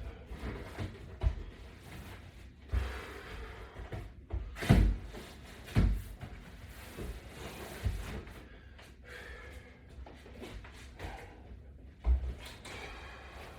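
Irregular thumps and knocks from resistance-band exercise gear being handled and moved, about seven in all, the loudest about five seconds in.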